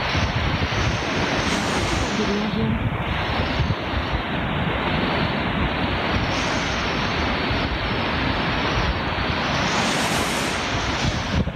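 Sea waves washing onto the shore in strong wind, with gusts buffeting the microphone; the surf swells and recedes a few times.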